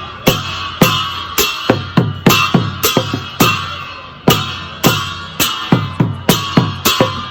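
Traditional Newar festival drumming for the Lakhey dance: a hand-beaten drum struck in a fast, uneven beat, about two strokes a second, with deep decaying thuds, over the continuous ringing clash of cymbals.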